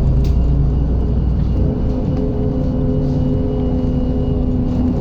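MAZ-107 city bus under way, heard from inside the passenger cabin: a steady diesel engine and drivetrain drone over road rumble. About a second and a half in, the engine note shifts and then holds steady.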